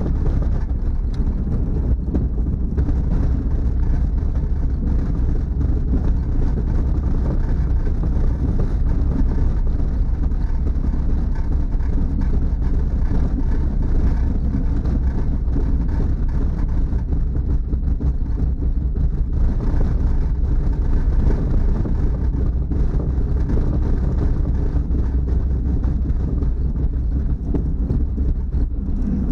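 Snow-plow car running steadily with a continuous low rumble as it drives through packed snow.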